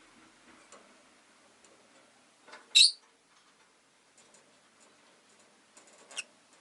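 Rosy-faced lovebird giving one short, loud, high chirp about three seconds in and a fainter one near the end, over faint scattered ticks.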